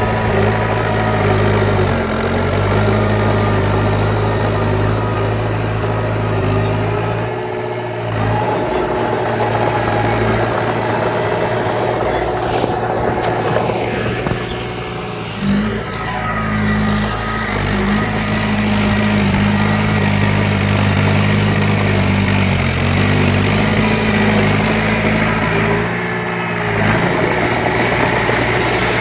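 Diesel engine of a heavy construction machine running steadily, its pitch stepping up and down a few times as the engine speed changes.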